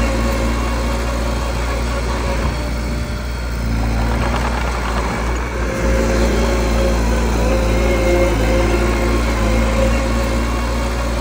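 Diesel engine of a mini crawler bulldozer running steadily, with a rougher, busier stretch about three to six seconds in.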